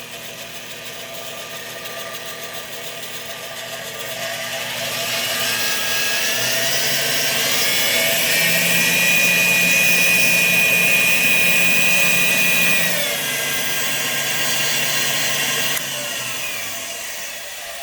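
Dumore 37-021 variable-speed precision drill press motor running with its speed dial being worked. The whine rises in pitch over a few seconds, holds steady at high speed, then drops in two steps as the motor is slowed down near the end.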